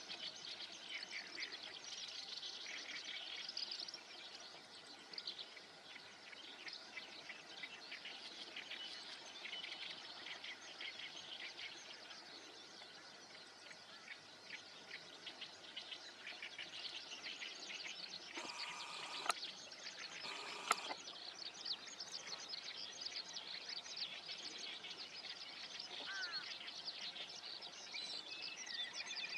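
Dense chorus of many small wild birds chirping and twittering over one another. Two short knocks come about two seconds apart a little past the middle.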